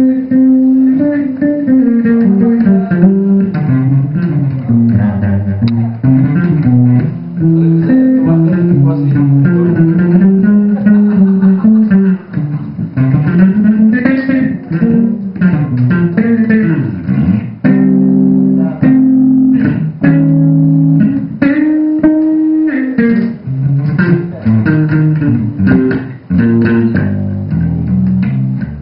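A band rehearsing: a bass line and guitar played together, the notes moving up and down continuously.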